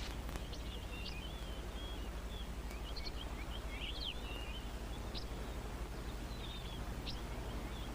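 Sandgrouse chicks peeping: many short, high, twisting chirps scattered through, over a steady low hum.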